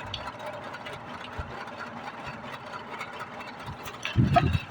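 A motor running steadily, with a heavy low thump about four seconds in.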